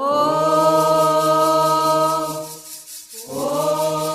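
Voices singing a Candomblé chant to the orixás in two long held phrases, the second starting about three seconds in, over a fast, steady rattling rhythm.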